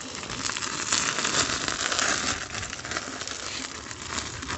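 Candle wax burning in a bonfire, crackling and sizzling as it foams, a dense patter of small crackles that grows louder about a second in and eases off after the middle.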